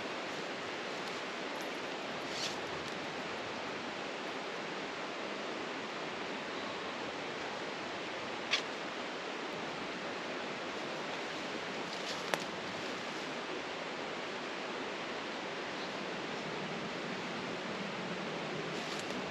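Steady, even rush of flowing water, with a few faint clicks at intervals.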